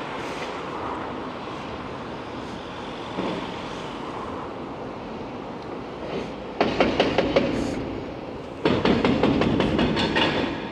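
Demolition work: a steady rumble of heavy machinery, broken twice by bouts of rapid, hard hammering, a short one about two-thirds of the way in and a longer one near the end.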